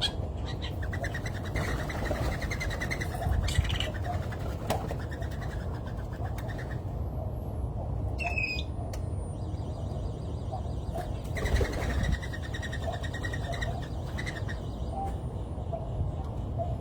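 Wild birds calling around a feeder: two rapid trills, one near the start and one about two-thirds through, a short higher call in between, and scattered soft chirps, over a steady low background rumble.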